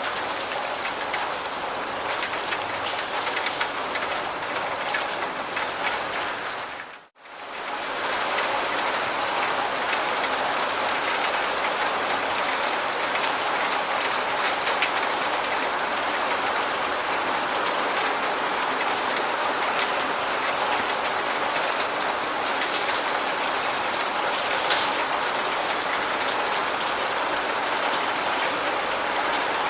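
Steady, dense rain falling, with fine pattering drops. About seven seconds in it fades out for a moment and comes straight back, where the recording is joined.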